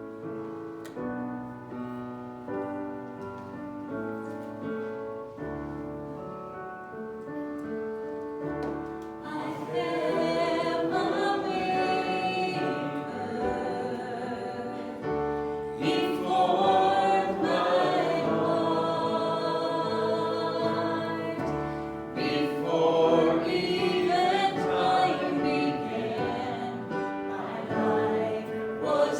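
Worship song with piano or keyboard: the keyboard plays alone at first, and a group of voices begins singing about nine seconds in.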